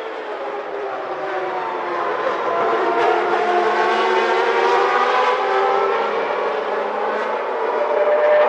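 Naturally aspirated 3.5-litre Formula One race car engines running at high revs, several engine notes at different pitches heard at once. The sound grows louder over the first few seconds as the cars come closer.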